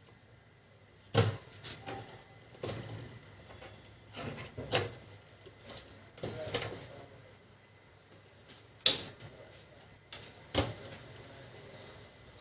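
Irregular clicks and knocks of printer parts being handled as the fuser unit of a Canon LBP2900 laser printer is opened up, about half a dozen separate knocks with the sharpest about a second in and near nine seconds.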